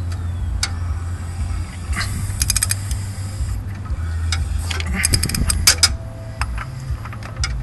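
Hand socket ratchet clicking in quick runs, about two and a half and five seconds in, as an engine is turned over by hand at the crank to bring it round to top dead centre. A low steady hum runs underneath.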